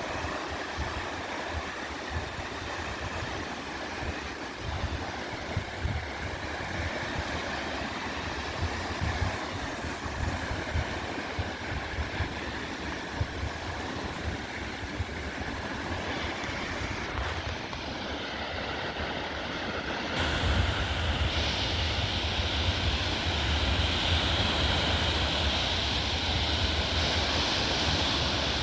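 Wind buffeting the microphone in gusts over a steady wash of waves on the shore; the wind gets louder about two-thirds of the way through.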